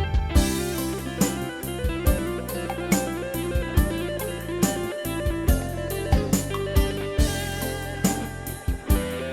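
Instrumental band music with electric guitar and a steady drum-kit beat, no singing.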